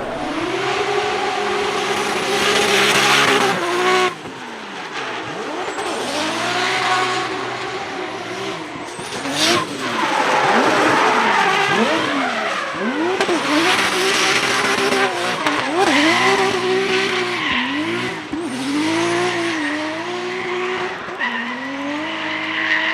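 Drift car engine held high on the throttle for about four seconds, then dropping and rising again over and over as the throttle is worked through a drift, over a steady hiss of spinning, skidding tyres. A single sharp crack comes about nine and a half seconds in.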